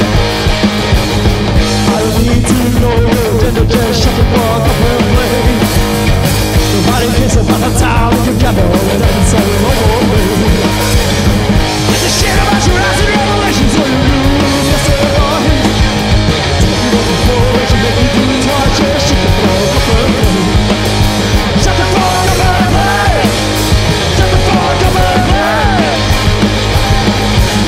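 Live garage-punk duo playing an instrumental stretch on electric guitar and drum kit, loud and without vocals.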